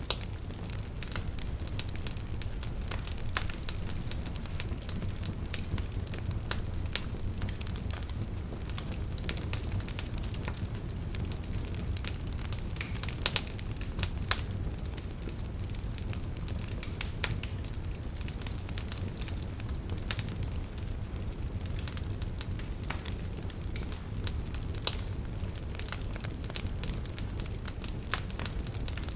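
Wood fire burning in a fireplace, crackling with frequent sharp pops over a steady low rumble of the flames; a few louder snaps stand out about halfway through and again near the end.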